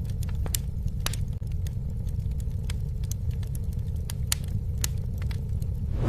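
Campfire burning, with irregular sharp crackles and pops from the wood over a steady low rumble of flame.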